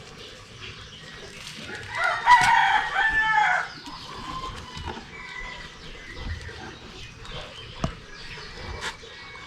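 A rooster crowing once, about two seconds in, for under two seconds, over a low background.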